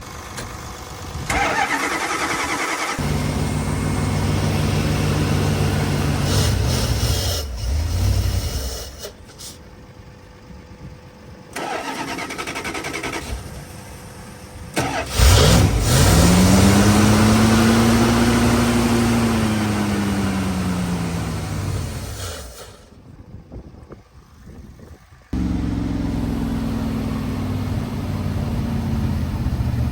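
First-generation Dodge truck engine on a reluctant cold start: cranked again and again, it catches several times and dies. The longest attempt, about halfway through, revs up and then winds back down to a stall, and another attempt starts a few seconds before the end.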